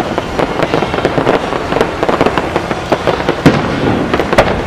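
Aerial firework shells bursting in quick succession, a dense run of bangs and crackles, with the loudest bang about three and a half seconds in and another near the end.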